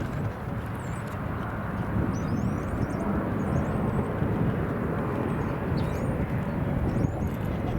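Airliner jet engine noise at an airport: a steady, even rumble, with a few short high chirps over it.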